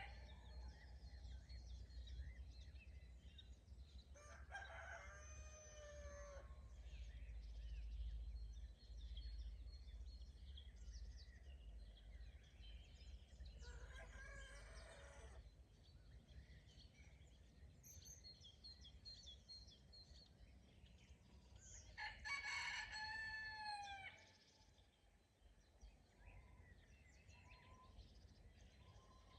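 A rooster crowing three times, each crow about two seconds long, with small birds chirping faintly between the crows over a low rumble.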